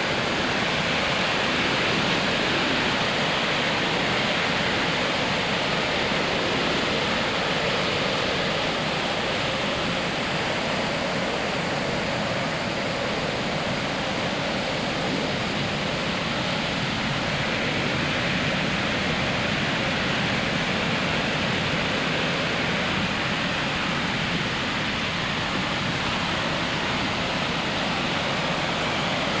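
Ocean surf breaking on a sandy beach: a steady, continuous wash of noise with no separate waves standing out.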